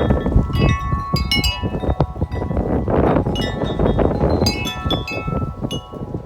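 Corinthian Bells 36-inch wind chime ringing in strong, gusty wind, its tubes struck again and again so that many tones overlap, over a low rumble of wind.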